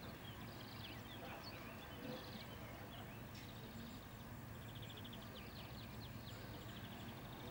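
Small songbirds chirping and giving short rapid trills, over a steady low background hum.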